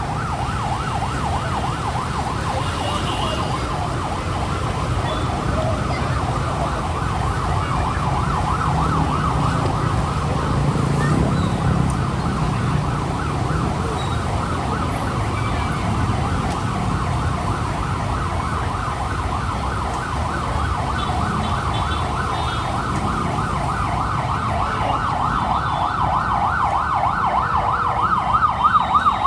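Emergency vehicle siren wailing in a fast, continuous up-and-down warble, over the low rumble of street traffic; the siren grows a little louder near the end.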